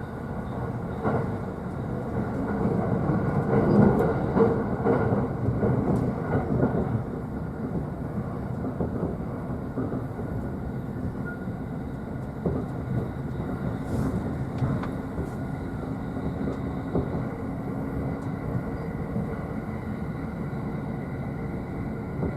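Running noise of a JR East E531 series electric train heard inside the upper deck of a double-decker car: a steady rumble of wheels on rail with a faint hum. It grows louder and rougher between about one and seven seconds in, and a few sharp clicks come through.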